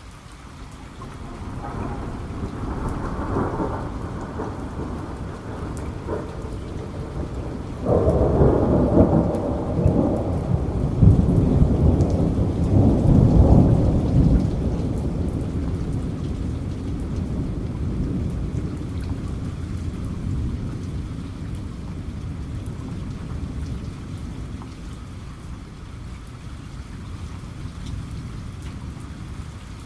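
Thunder rolling over steady rain. A rumble builds about a second in, a louder peal breaks about eight seconds in and rolls for several seconds, then it slowly dies away under the rain.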